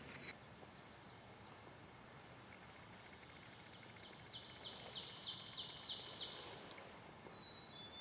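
Small songbirds singing: a short, high, descending series twice, then a loud run of repeated high notes about three a second for some two seconds, and a thin high whistle near the end.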